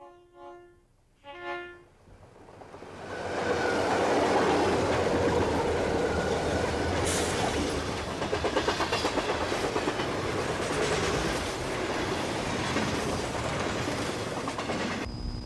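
Two short train horn blasts, then a train rumbling closer and running on steadily, with the clickety-clack of its wheels on the rails.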